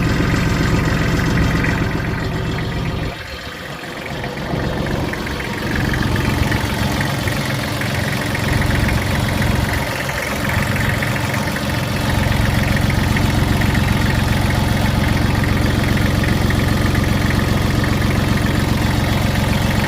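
Kubota L3130 tractor's diesel engine running steadily at idle, briefly quieter about three seconds in.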